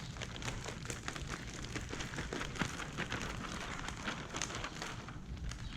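Continuous crackling and rustling of plastic window tint film being handled on the glass.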